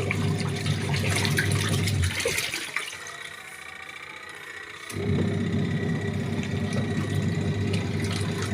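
7 kg top-loading washing machine washing a load: its motor hums and the water churns in the tub. It stops about two seconds in, then starts again about three seconds later, the pulsator pausing before it turns the other way.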